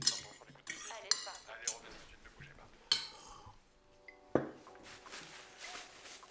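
Cutlery clinking and scraping on china plates during a meal, with a handful of sharp ringing clinks in the first three seconds and a single louder knock about four and a half seconds in. Soft music with held notes comes in during the second half.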